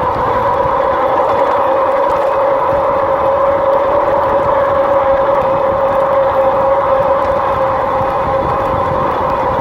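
RadRover electric fat-tire bike riding along: a steady whine from its hub motor over tyre and wind noise, the pitch edging up slightly mid-way and settling again as speed changes.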